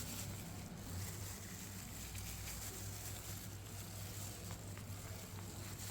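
Faint steady low hum under background noise, with no distinct sounds standing out.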